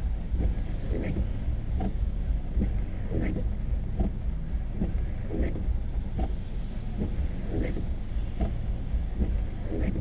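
Car windshield wipers sweeping in rain, one pass about every two seconds, over the steady drone of the engine and tyres heard from inside the cabin.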